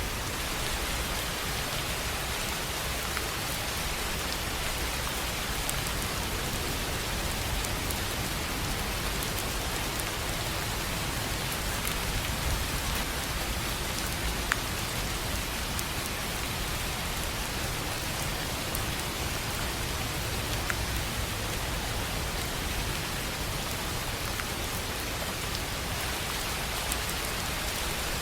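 Steady rain falling on a tin roof, an even hiss with scattered sharp drop ticks.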